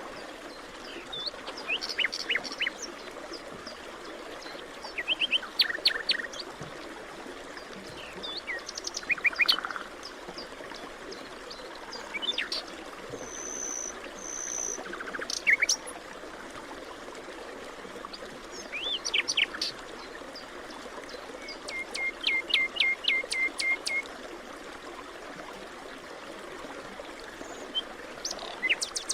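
Forest birds singing, a mix of short chirps, whistled notes and rapid trills, over a steady background rush of running water from a stream.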